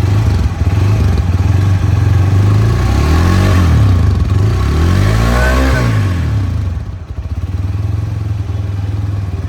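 Hero Thriller 160R 4V motorcycle's single-cylinder engine running and revved twice, its pitch rising and falling about three and six seconds in, then settling back to a lower steady run near the end.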